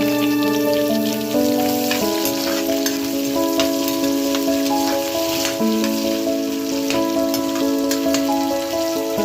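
Vegetables sizzling and crackling as they fry in a pan, under background music of held notes.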